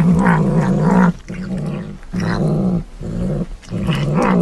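A pet animal growling: a series of long, low, wavering growls broken by short pauses.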